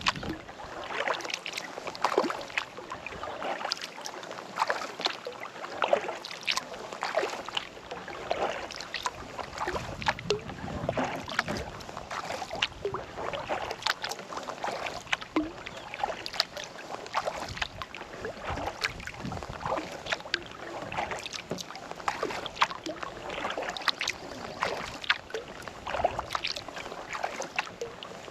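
Kayak paddle dipping into lake water stroke after stroke, with splashes and water dripping off the blades.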